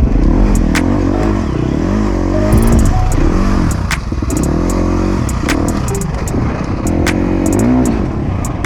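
Dirt bike engine revving up and down repeatedly as it is ridden over rough sand and rock, with scattered sharp clacks along the way.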